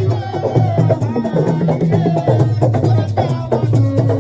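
Live percussion music: drums played in a busy rhythm with sharp, clicking strikes and rattles, and voices over it.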